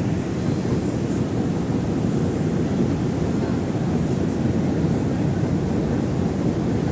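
Interior of an R142 subway car running at speed: a steady low rumble of wheels and motors.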